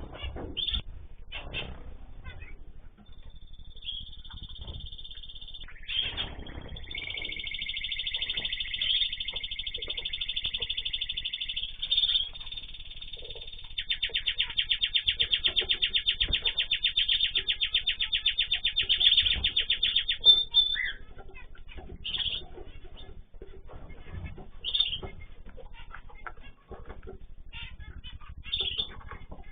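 Small cage birds singing and chirping: a long run of high whistled song with a fast, even trill in the middle, then scattered short chirps.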